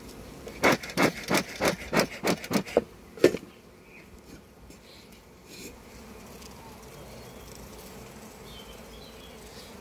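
Honey bees buzzing around an open hive. Early on there is a rapid run of about eight sharp strokes, about three a second, with one more shortly after.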